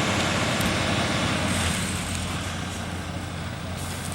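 Steady heavy-vehicle engine noise with a constant low hum, over a wash of road traffic noise, slightly louder in the first couple of seconds.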